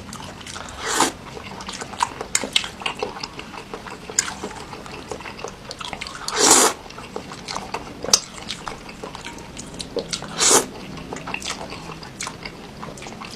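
Close-miked eating: wet chewing and lip-smacking clicks throughout, with three louder slurps about a second in, midway and near the end.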